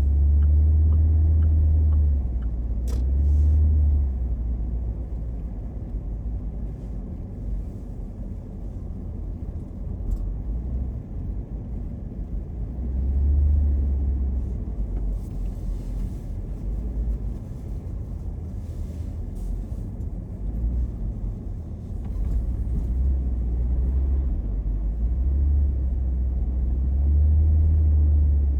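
A car driving, heard from inside the cabin: a low road and engine rumble that swells and eases every few seconds, with a couple of faint clicks.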